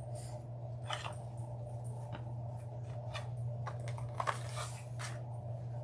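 Ribbon being handled: scattered rustles and light clicks, strongest about a second in and again after four seconds, over a steady low hum.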